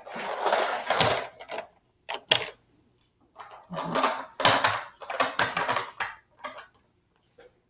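Handling noise: hard objects, toys and a charger cable among them, being moved and set down, rustling and clattering in several bursts with short pauses between.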